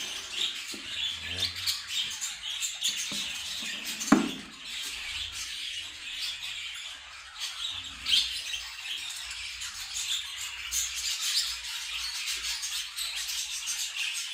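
A flock of budgerigars chirping and chattering continuously, with a sharp knock about four seconds in and a softer one about eight seconds in.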